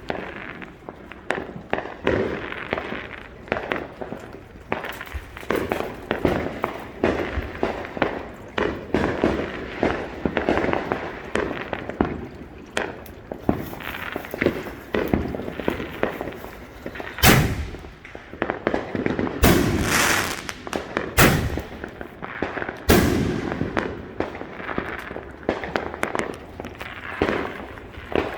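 Consumer fireworks going off in a rapid, continuous barrage of crackling pops, with several louder bangs about two-thirds of the way through.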